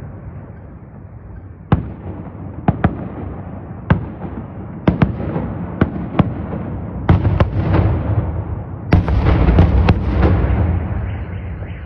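Fireworks salute: a string of sharp bangs from shells bursting overhead, spaced irregularly over a continuous low rumble, growing denser and louder about nine seconds in.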